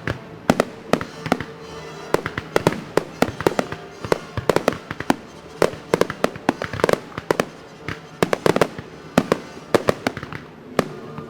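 Aerial fireworks shells bursting in a rapid, irregular run of sharp bangs, several a second at times, with music playing underneath.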